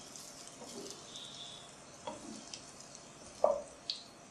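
Egg-battered bread slices frying in hot oil in a pan on a medium flame: faint sizzling with fine crackles, and a few short knocks, the loudest about three and a half seconds in.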